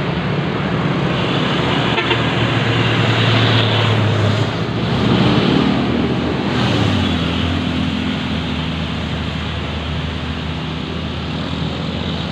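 Isuzu dump truck's diesel engine running under a load of boulder stone, its note shifting about four and a half seconds in and again near seven seconds.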